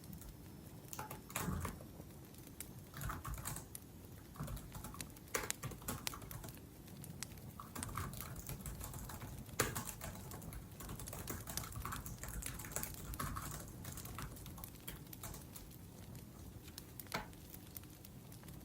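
Typing on a laptop keyboard in short bursts of quick key clicks, with brief pauses between bursts.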